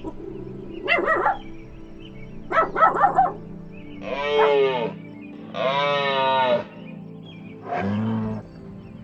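A series of animal calls over background music: short harsh calls about a second in and again near three seconds, then two longer pitched calls, the first falling and the second held for about a second, and a shorter call near the end.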